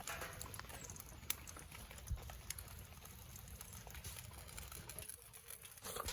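Light rain pattering steadily, with a few scattered sharp ticks.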